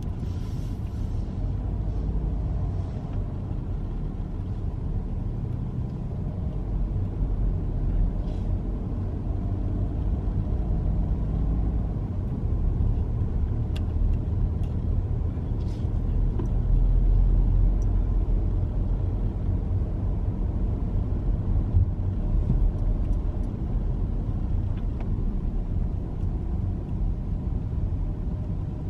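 Steady low rumble of a car's road and engine noise heard from inside the moving car, swelling slightly about halfway through, with a few faint ticks.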